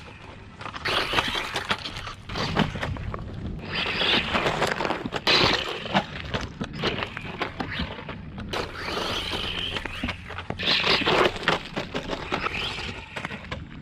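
Radio-controlled car driving over rough ground: irregular crunching and scraping from its tyres and chassis, coming in uneven bursts.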